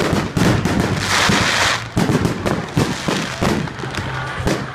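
Aerial fireworks going off in rapid succession: many sharp bangs, with a burst of crackling hiss lasting just under a second about a second in.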